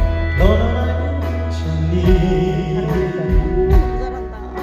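Male vocalist singing a slow Korean pop song over an instrumental backing with a steady bass line.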